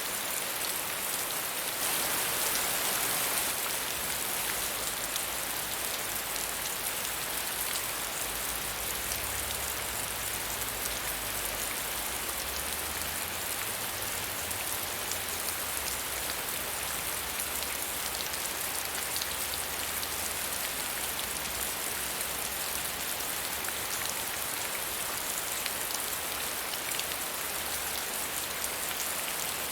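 Steady medium rainfall pattering on a surface, with many fine drop ticks, a little heavier for a moment about two seconds in.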